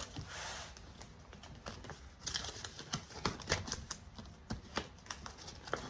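Light clicks and taps with short bursts of paper rustling, from cash and binder pages being handled on a table.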